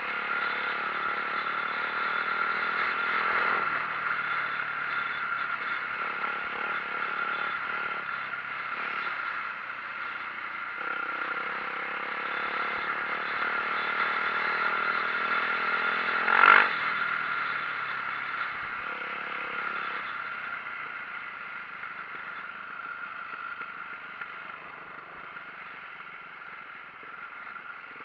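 A Yamaha YZ450F single-cylinder four-stroke dirt bike engine runs under way, with rattling from the bike. One sharp, loud knock comes about two-thirds of the way through.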